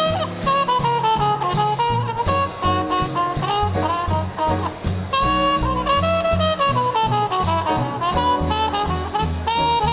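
Small-group swing band playing live: a horn melody with sliding notes over a steady stepping bass line, piano and drums.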